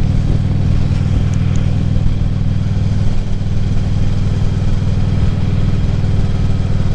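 2014 Harley-Davidson Ultra Classic Limited's V-twin engine running steadily while riding, with no change in pitch.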